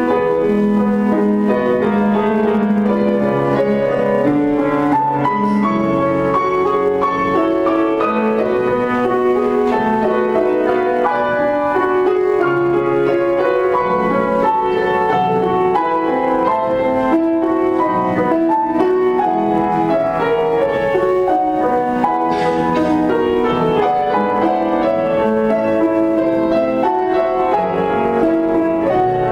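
Piano playing a classical-style piece, its notes held and overlapping.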